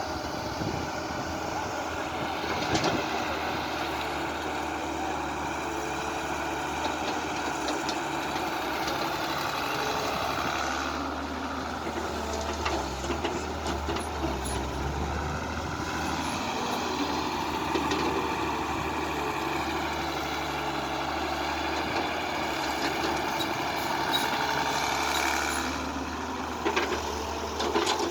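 Diesel engines of backhoe loaders and a truck running continuously, their pitch rising and falling every few seconds as the machines work, with a few sharp knocks.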